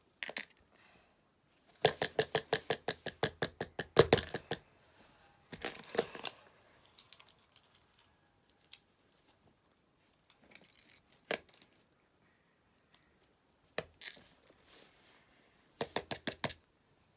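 Fidget toys being handled, with bursts of rapid clicking, about eight clicks a second, two seconds in and again near the end, and single clicks and soft handling noise between.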